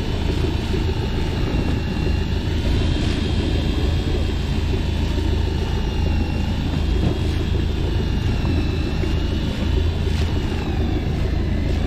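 Motorboat engine running steadily under way: a low, even drone with a faint whine that wavers slightly in pitch.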